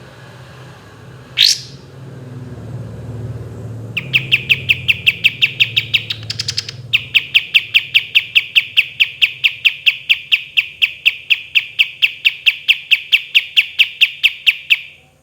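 Kapas tembak bulbul singing: one sharp rising call, then a long, rapid rolling string of short repeated notes, about five or six a second. A brief faster, higher flurry breaks the string before the roll resumes and stops near the end.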